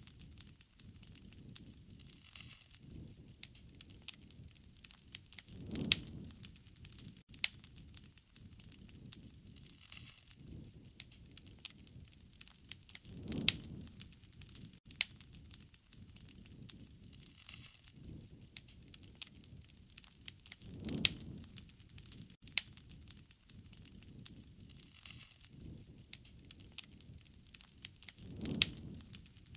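Wood fire crackling, with frequent sharp pops and snaps over a low hiss. A low swell rises and falls about every seven and a half seconds.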